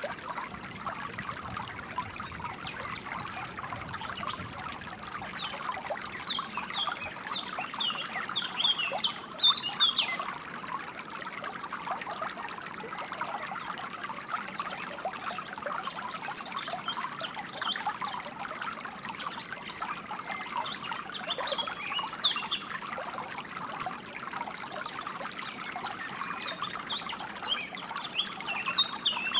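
Water trickling and burbling steadily in a small stream, with songbirds chirping in scattered clusters of short high calls.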